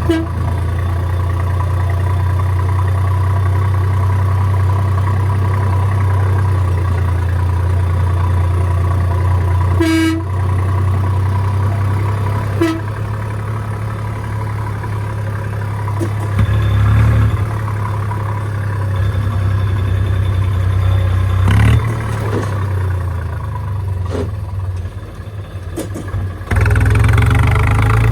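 Tractor engine running steadily, with a few short knocks, then getting louder as it speeds up near the end.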